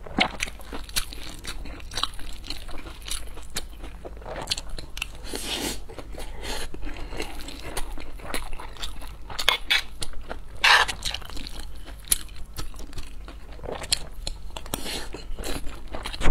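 Close-miked chewing of a mouthful of fried rice with diced vegetables: a run of wet mouth clicks and smacks. Now and then a metal spoon scrapes and clinks against the plate.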